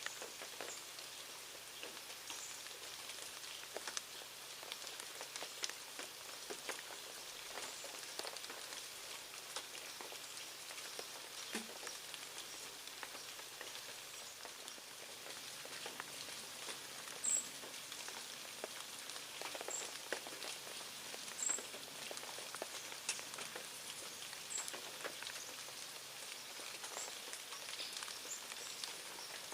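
Steady patter of many small ticks, like light rain falling on a surface. A few short, very high bird chirps come through in the second half.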